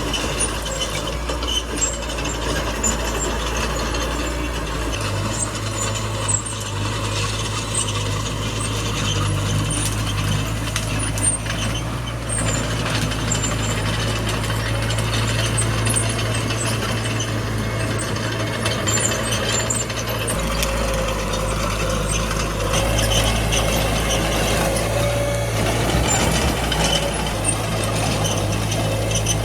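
Small crawler bulldozer working: its diesel engine runs under load while the steel tracks and blade clank and rattle. The engine note steps up and down a few times.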